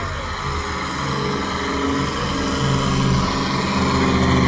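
Competition pulling tractor's engine running hard under load during a pull. Its pitch steps up and down a few times, and it grows slightly louder toward the end.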